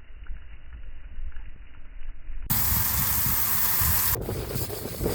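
Burning trash fire, heard first slowed down and muffled, then a loud hiss that cuts in suddenly and cuts off about a second and a half later, followed by wind on the microphone.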